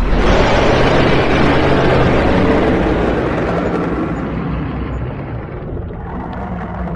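Dragon sound effect: a sudden loud rushing blast over a low rumble, which slowly fades over about six seconds.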